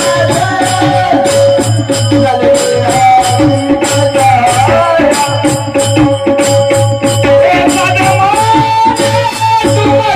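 Marathi bhajan music: a wavering melody over a steadily held drone note, with a regular drum pulse and jingling, rattling percussion throughout.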